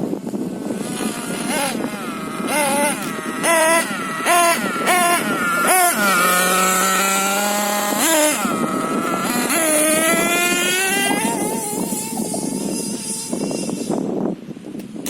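Two-stroke LRP ZR.28 nitro engine of a Hobao Hyper MT RC monster truck revving in a quick series of short throttle blips. It is then held at high revs for about two seconds and climbs again in a long rising pull before easing off near the end.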